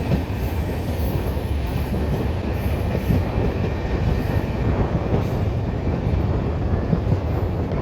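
A passenger train moving along the track: a steady, loud rumble of coaches and wheels with continuous clatter.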